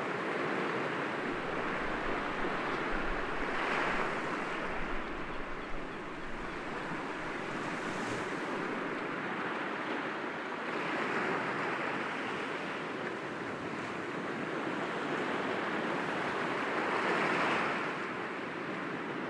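Sea waves breaking gently against rocks: a steady wash of surf that swells every few seconds, loudest near the end.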